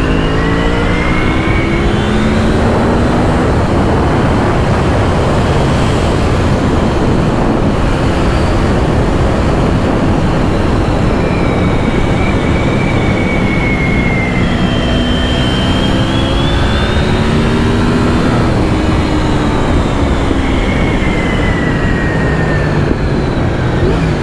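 Honda VFR750's V4 engine under way, heard under heavy wind rush over a helmet-mounted microphone. The revs climb near the start, then climb again and fall away in the second half as the bike accelerates and eases off.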